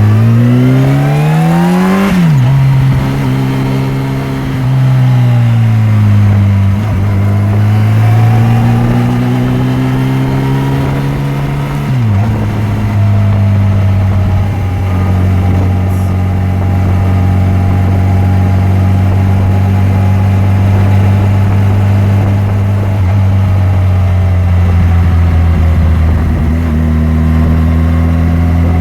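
Yamaha FJR1300's inline-four engine pulling through the gears. The pitch rises and then drops sharply at an upshift about two seconds in, dips and climbs again, and drops at another upshift near twelve seconds. It then holds a steady pitch at cruising speed.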